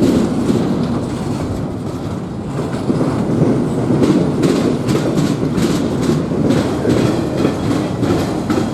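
Train rolling past, a steady loud rumble of railcars with the wheels clicking over rail joints several times a second.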